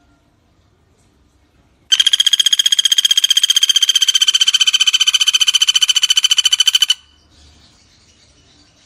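Common flameback woodpecker (pelatuk bawang) giving one rapid rattling trill of about a dozen notes a second. It starts about two seconds in and runs about five seconds before stopping abruptly.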